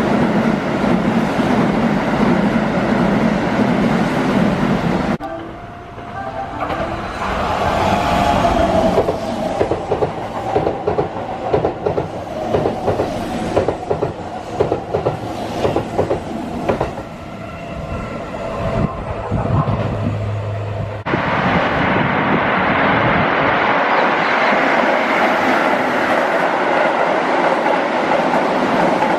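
Keihan 3000 series electric train passing through stations at speed, heard in three cuts: a steady rush of wheels on rail, then a close pass with fast, regular clickety-clack of wheels over rail joints, then another steady rush. The sound changes abruptly at each cut, about five seconds in and again near twenty-one seconds.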